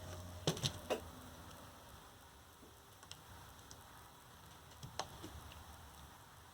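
Sharp clicks and knocks from handling the parts of a lithium-ion scooter battery pack being taken apart: three quick ones about half a second in and another about five seconds in, over a low steady hum.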